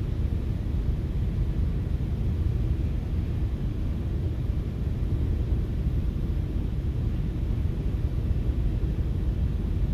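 Steady low rumble inside a FrontRunner commuter train coach as the train runs along the track.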